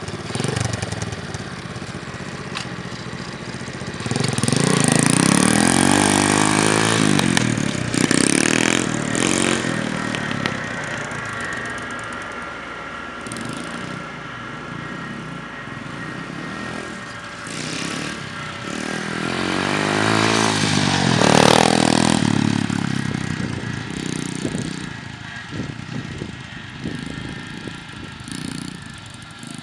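A 125cc pit bike's single-cylinder engine being ridden, its revs rising and falling through the gears. It swells loudest twice, about five seconds in and again past the twenty-second mark, as it passes close, and fades toward the end.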